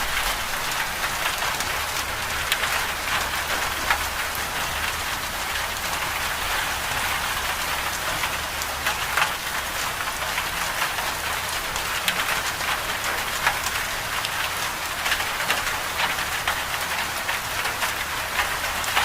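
Steady moderate rain: an even hiss of falling rain dotted with many sharp individual drop hits, over a steady low rumble.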